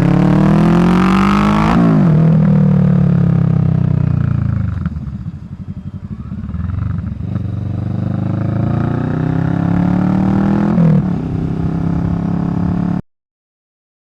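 2023 Kawasaki Vulcan 650's parallel-twin engine through a Delkevic slash-cut exhaust, revving up under acceleration, dropping in pitch at a gear change, easing off and slowing, then pulling up through the revs again to a second gear change. The sound cuts off abruptly about a second before the end.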